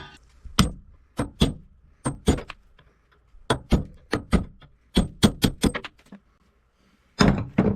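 A hammer striking a steel punch to drive corroded steel bolt remains out of a bronze cutlass bearing housing: a series of sharp metallic strikes in uneven clusters, with a short pause about six seconds in before a last quick flurry.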